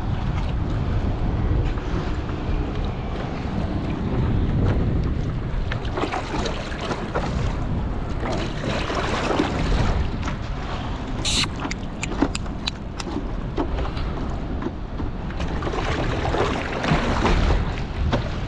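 Strong wind buffeting the microphone, a gusting rumble, over water splashing around a paddle craft. A few sharp clicks come between about eleven and thirteen seconds in.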